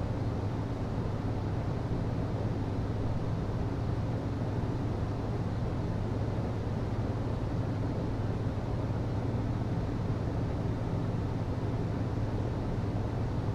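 HVAC system running steadily: a low hum under an even rush of air.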